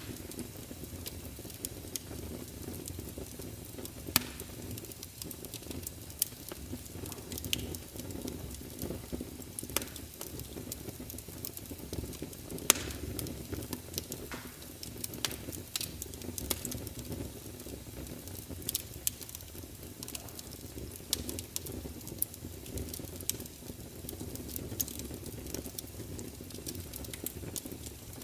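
Wood fire crackling: frequent sharp pops and snaps, irregular and a few louder than the rest, over a steady low rumble of the burning.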